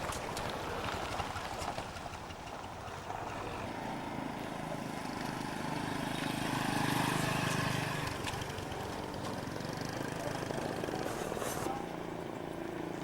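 A motor vehicle's engine running over outdoor background noise, swelling to its loudest about seven seconds in and then easing off, as a vehicle passing close by would.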